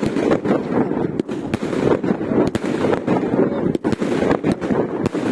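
Fireworks and firecrackers going off: a dense, irregular string of sharp bangs and crackles, several a second, over a continuous rumble.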